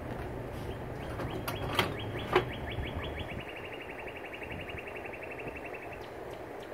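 A small bird singing one long, even trill of rapid notes, about ten a second, for some five seconds, dropping slightly in pitch partway through. Wind rumbles on the microphone in the first half, and two sharp knocks come around two seconds in, the second the loudest sound.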